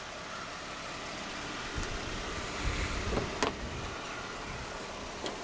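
A few sharp clicks and knocks over a low rumble of handling noise: the Jeep Wrangler's hood latches being undone by one hand and the hood lifted.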